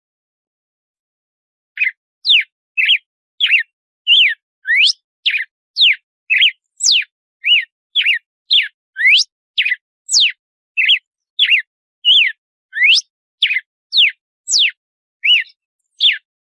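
Red-cowled cardinal (galo-de-campina) singing its 'açoite' song: a long run of short, clear whistled notes, about two a second, each a quick sweep up or down in pitch, starting about two seconds in.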